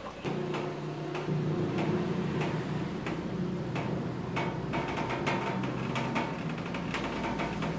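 A steady low engine hum, such as an idling vehicle, that starts just after the opening, with many irregular sharp ticks and taps over it.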